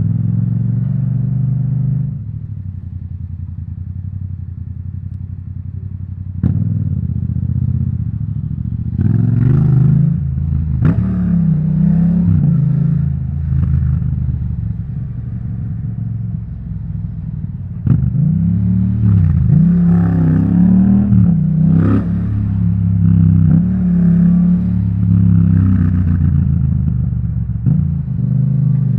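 2018 Yamaha MT-07's parallel-twin engine through an Akrapovic titanium exhaust, heard from a microphone in the rider's backpack while riding. The throttle closes about two seconds in, then the revs rise and fall again and again as it pulls away and shifts gear, with sharp jumps in revs about six seconds in and again about eighteen seconds in.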